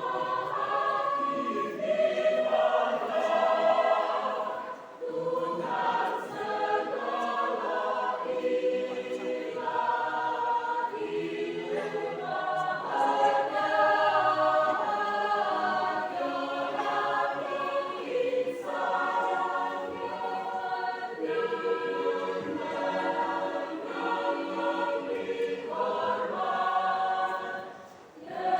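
Church choir singing in phrases, with a brief breath pause about five seconds in and another near the end.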